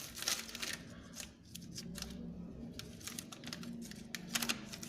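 Light clicks and taps of wire and razor blades being handled, with a cluster in the first second and another near the end, over a faint steady hum.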